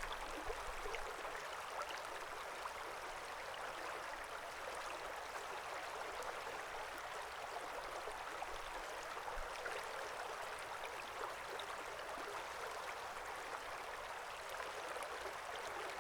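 Small creek flowing steadily, an even rush of running water with small splashing ticks.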